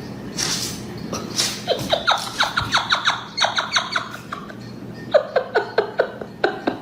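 A rapid run of short squeaky animal calls, each falling in pitch, about four a second, in two bursts.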